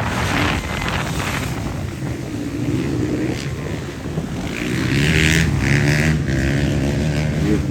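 Motocross motorcycle engines revving up and down as bikes race past, with wind buffeting the microphone at first.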